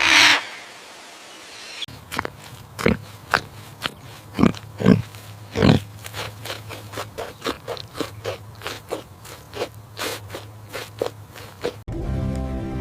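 A farm animal making irregular crunching clicks, a few a second, over a steady low hum, after a short loud noisy burst at the start. Music comes in suddenly near the end.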